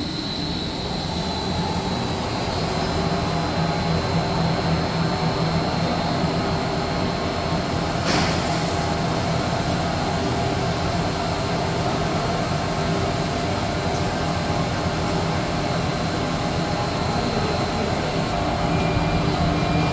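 OC 400 flat-bed CNC lathe running: a steady machine hum with a thin high whine. There is one sharp click about eight seconds in.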